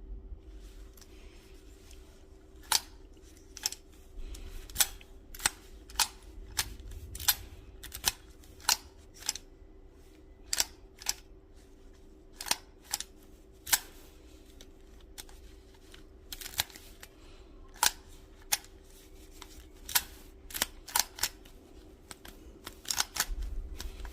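A long run of sharp mechanical clicks at irregular spacing, roughly one or two a second, some in quick pairs, over a faint steady hum.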